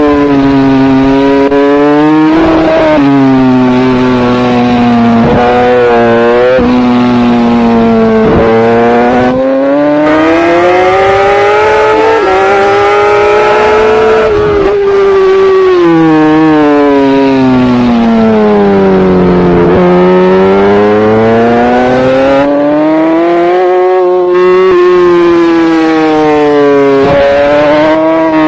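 Superbike engine racing at full throttle. Its pitch climbs under acceleration with quick steps at the gear changes, then falls away as the bike slows for corners and rises again.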